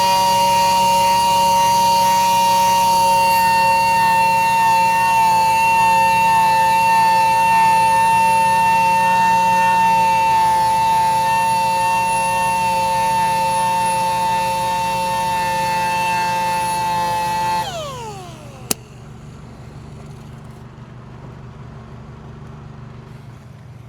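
Handheld power sanding tool running steadily at full speed on a damaged alloy wheel rim, working out curb rash, then winding down with falling pitch about 18 seconds in. A single sharp click follows, then a faint steady hum.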